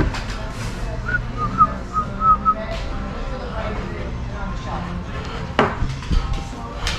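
A person whistling a few short notes of a tune about a second in, over the steady hum and clatter of a busy shop, with a few sharp clicks later on.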